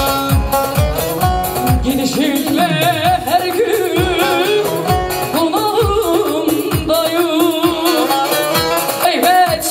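Turkish folk music played by a band over a steady drum beat, with a singer coming in about two seconds in on a wavering, ornamented melody.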